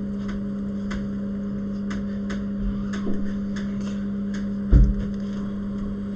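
Steady electrical hum of bench equipment with scattered light clicks of small tools on a phone, and a single dull knock near the end.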